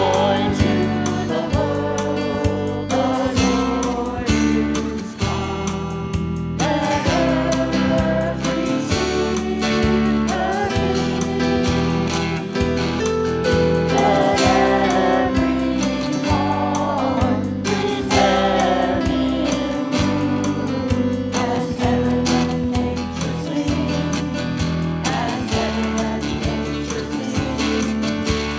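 Church praise band playing a Christmas worship song: singing over guitar and other instruments with a steady beat.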